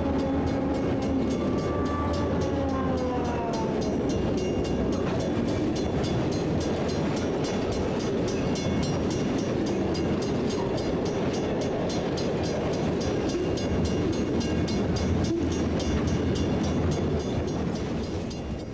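Train passing: a horn with several tones falls in pitch over the first few seconds, then a steady rumble of the train running on the rails, with many clicks.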